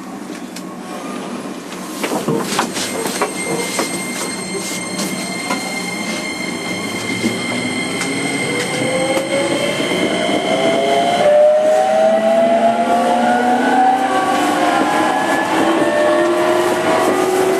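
JR 205 series 5000-subseries electric train, heard inside a motor car, pulling away: the inverter and traction-motor whine climbs steadily in pitch and grows louder as the train gathers speed, over the clatter of wheels on rail. A steady high tone stops about eleven seconds in, and the rising whine carries on.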